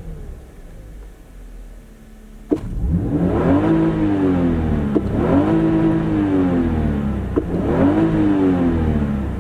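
Toyota Aristo's 2JZ-GE 3.0 L inline-six running low and quiet, then going to full throttle about two and a half seconds in. It revs up through the gears of its five-speed automatic, with upshifts about five and seven and a half seconds in, each a short drop in pitch before it climbs again.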